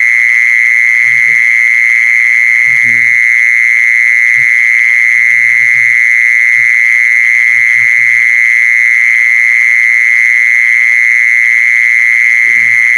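Mole cricket singing: one loud, unbroken, steady high trill that holds one pitch throughout.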